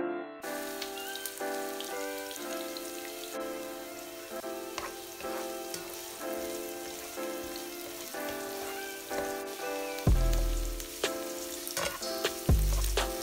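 Diced vegetables sizzling and crackling in hot oil in a frying pan as they are stirred with a spatula; the sizzle starts just after the beginning. Soft background music with piano-like chords plays throughout, and deep bass notes join it about ten seconds in.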